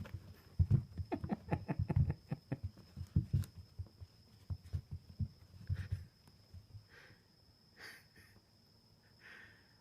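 Quick, irregular run of soft thumps and taps as a cat bats and pounces at a teaser wand toy, dying away after about six seconds, followed by a few faint brief rustles.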